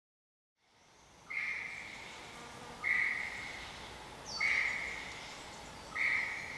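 A bird calling: four short, clear whistled notes about a second and a half apart, over a faint background hiss that fades in after a second of silence.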